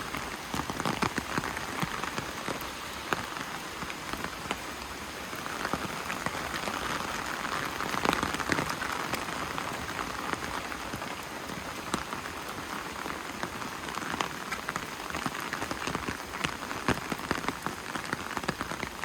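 Steady rain falling, with many individual drops ticking sharply close by. It swells a little about eight seconds in.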